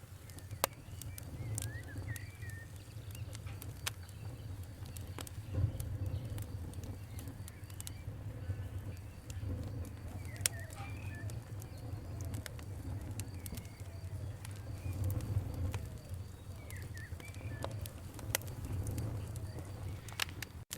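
Campfire burning with a steady low rumble and scattered sharp crackles and pops. Birds chirp briefly a few times.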